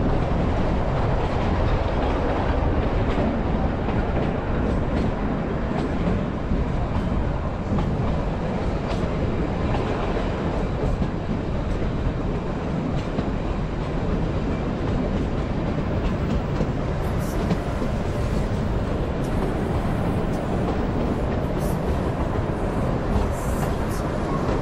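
Kalka–Shimla narrow-gauge toy train on the move: a steady rumble of the carriages running on the track, with scattered faint clicks of the wheels over the rail joints.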